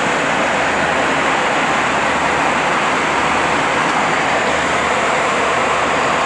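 Steady cabin noise of an Airbus A320 in cruise: an even, unbroken rush of airflow and engine noise heard from inside the cabin.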